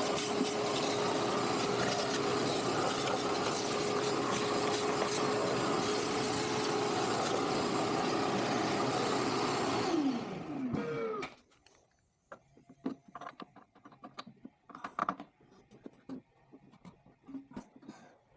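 A motor running at a steady high speed, whining and hissing, then winding down with a falling pitch about ten seconds in; light clicks and knocks follow.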